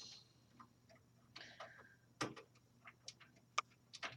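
Scattered light clicks and taps of a computer's main power connector and nearby parts being handled and pushed onto the motherboard, with a soft rustle about a second and a half in; the connector had not been seated properly.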